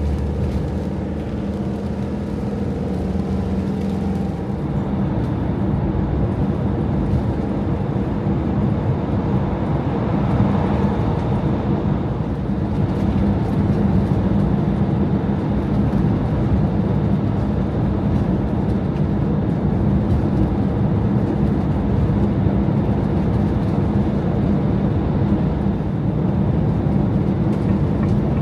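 Campervan driving through a long road tunnel: steady engine and tyre noise.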